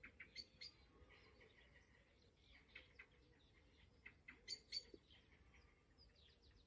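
Faint birdsong: scattered short, high chirps, with two louder calls a little past halfway.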